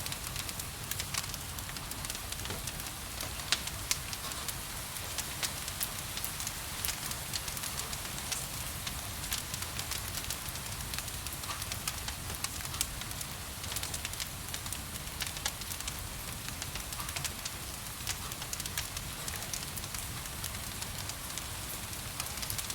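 Wood fire crackling with frequent small pops and a couple of louder snaps a few seconds in, over a steady hiss of rain.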